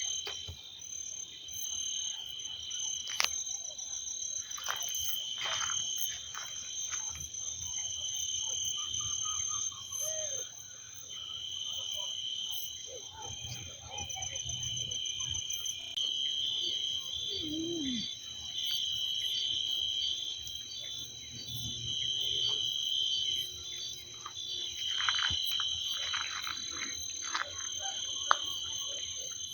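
Insect chorus: several steady high-pitched trills, some pulsing evenly, with scattered clicks and a few short calls over it.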